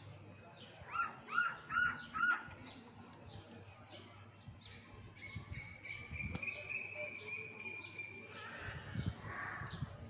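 Several wild birds calling and chirping: four loud, evenly spaced arched calls about a second in, many short high chirps throughout, and one long, steady high note lasting about three seconds in the middle.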